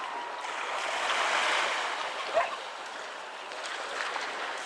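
Steady rushing noise of wind and water, swelling about a second in, with one brief sharp sound about two and a half seconds in.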